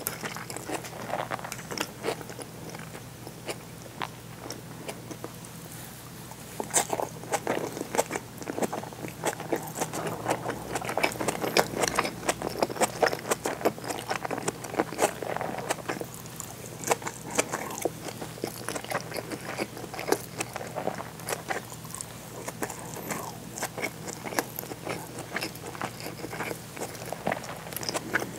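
Close-miked chewing of seared bonito tataki and rice: a dense run of wet mouth clicks and soft crunches, busier and louder from about six seconds in.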